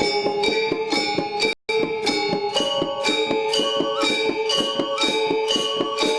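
Balinese gong gamelan playing a classical lelambatan piece: bronze metallophones strike a quick, even run of ringing notes over sustained gong-like tones. The sound drops out for a split second about a second and a half in.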